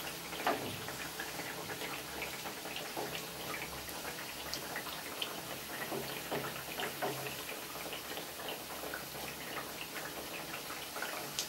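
Methi mathri deep-frying in hot oil on a low flame: a steady sizzle full of small crackles, with a few louder clicks as a spatula turns them in the pot.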